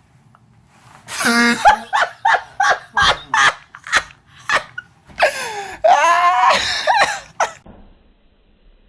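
A person laughing hard: a string of loud, rhythmic bursts of laughter starting about a second in and dying away after about six seconds.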